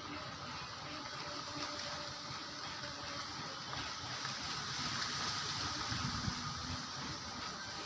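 Steady running water splashing, a little louder about halfway through.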